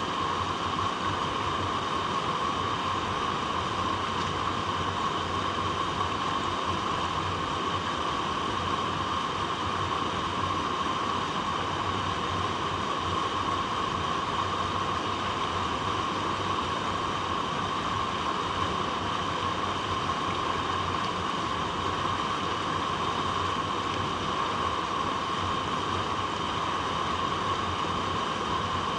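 Flowing water running over rocks, a steady, even rush that doesn't change.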